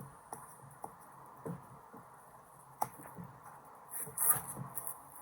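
Light taps and clicks of a small plastic toy being handled and worked at, with a sharp click a little under three seconds in and a louder cluster of knocks about four seconds in.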